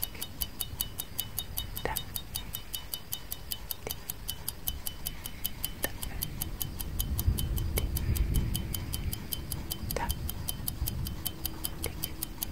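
Clock tick-tock sound effect: fast, even ticking at about five ticks a second, with a stronger click every two seconds. A low rumble swells up in the middle.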